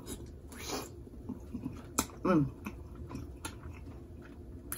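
A person eating a spicy seafood boil close to the microphone: soft mouth clicks and smacks, a quick slurp under a second in, and a short falling 'mm' hum about two seconds in.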